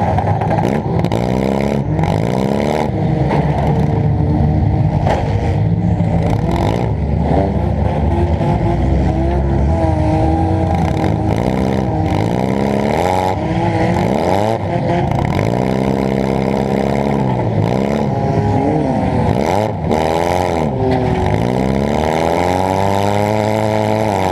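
Demolition derby car's engine heard from onboard, revving up and falling back again and again as the car accelerates and backs off, with scattered bangs and rattles of the car's body.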